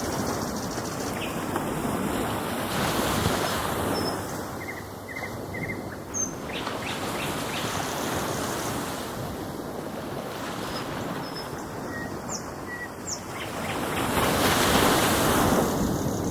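Ocean surf washing in, swelling about three seconds in and again near the end, with a few short bird chirps over it.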